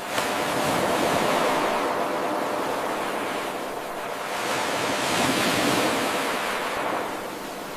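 Ocean waves washing onto a shore, with two surges of surf that swell and then fall back. An 8-second wave recording looped without a gap, so the surf jumps up sharply just after the start where the loop begins again.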